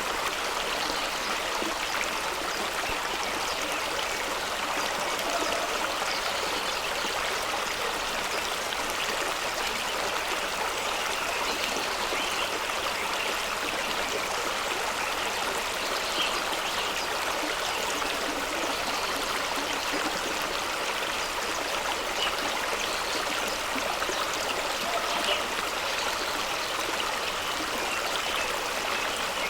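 Fast-running stream rushing and splashing over rocks, a steady, even rush with small splashes and gurgles scattered through it.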